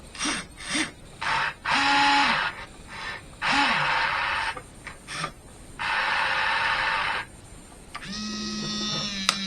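Electric motors of a Huina 1580 RC excavator whirring in a series of short bursts, each starting and stopping abruptly as the remote's controls are worked, the pitch rising and falling within each burst. Near the end a steadier, humming motor tone sets in.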